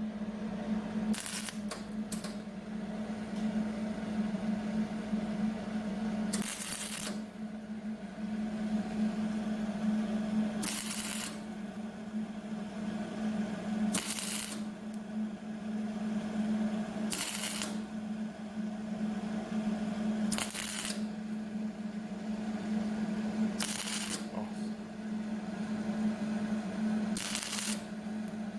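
Short bursts of welding crackle on the sheet-metal wheelhouse patch, about nine of them, each under a second and spaced every three to four seconds: tack welds being laid. A steady hum runs underneath.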